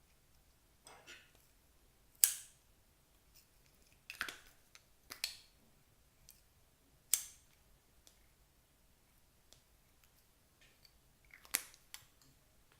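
Clear slime being worked by hand, giving sharp pops and clicks at irregular intervals, about six in all, the loudest around two and seven seconds in.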